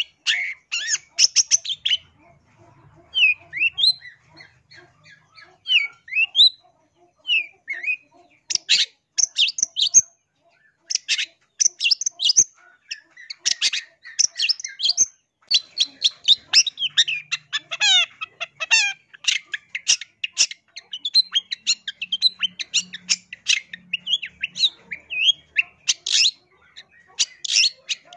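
Long-tailed shrike (cendet) singing a varied, chattering song of rapid, harsh notes and short rising whistles. The song is sparser and more whistled for the first several seconds, then turns into dense, fast chatter.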